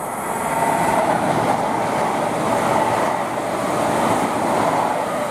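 Class 807 electric multiple unit passing on the line, a steady rush of wheel and rail noise that swells over the first second and holds.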